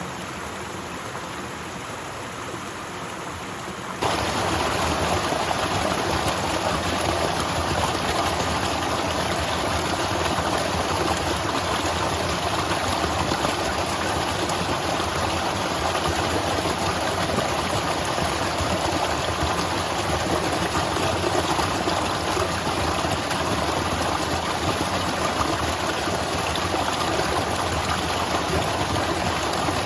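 Waterfall: a steady rush of falling water. About four seconds in it jumps suddenly louder and fuller, then holds steady.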